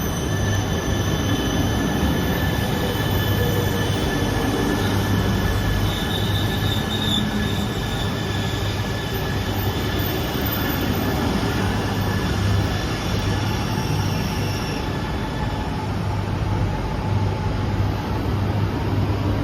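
E3 series Shinkansen train running, a steady dense rail noise with a strong low rumble. Several thin high tones sound over it and fade out near the end.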